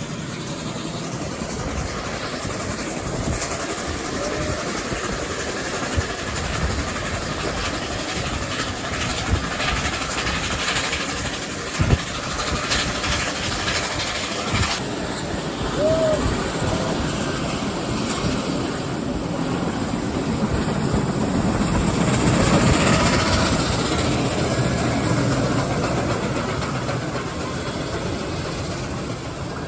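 Steam-hauled train running on the rails, heard from aboard, with a steady rumble and occasional sharp clicks from the wheels. It swells louder about twenty seconds in.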